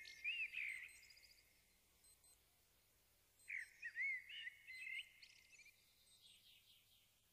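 Faint birdsong: a bird's whistled, warbling phrases with quick rising and falling sweeps, one burst at the start and another about three and a half seconds in, then dying away.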